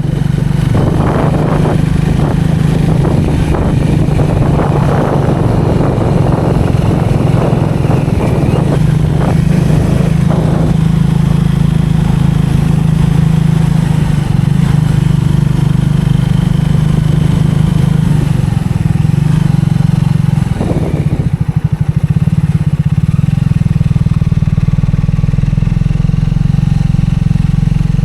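Triumph 400 single-cylinder motorcycle engine running steadily while being ridden, with rushing wind and road noise over it for roughly the first ten seconds. A little past twenty seconds the note briefly dips and changes before settling again.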